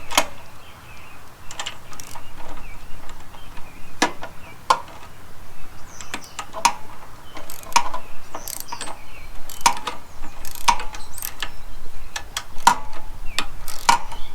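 Ratchet wrench clicking in short bursts, stroke after stroke, as a lock nut is run down its bolt and tightened.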